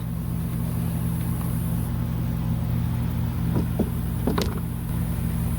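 Steady low mechanical hum with a few light clicks and knocks of plastic motorcycle fairing pieces being fitted together, about three and a half to four and a half seconds in.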